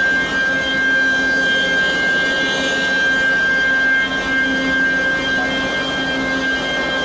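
Industrial milling machinery running steadily, a constant whine with a strong high tone over a mechanical rush.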